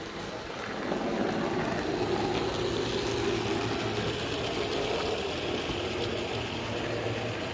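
Model train running along its track, a steady mechanical rumble with a low hum that swells about a second in and eases slightly near the end.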